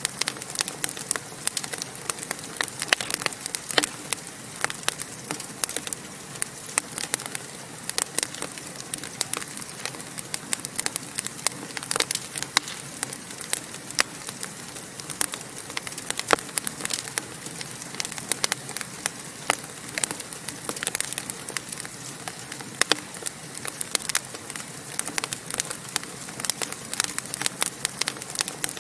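Wood fire crackling in a fireplace: frequent sharp, irregular pops and snaps over a steady hiss of burning.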